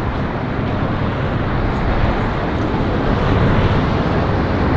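Strong wind blowing across the microphone, a steady rushing noise, mixed with road traffic.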